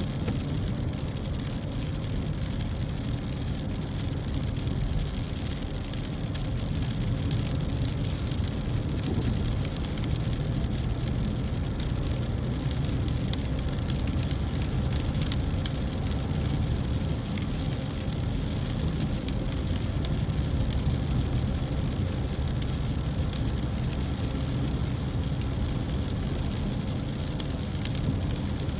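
Car driving in the rain: a steady low rumble of the car and its tyres on the road, with scattered ticks of rain hitting the car.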